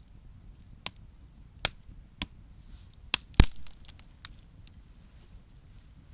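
Bonfire crackling: burning wood gives off a handful of sharp, irregular pops, the loudest about three and a half seconds in, with fainter ticks, over a low steady rumble.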